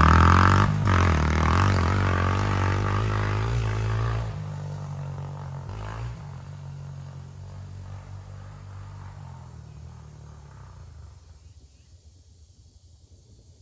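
Honda CRF125F dirt bike's air-cooled 125 cc four-stroke single engine revving under load, its pitch rising and falling. About four seconds in the note drops and steadies, then fades away over the following seconds until only faint background remains.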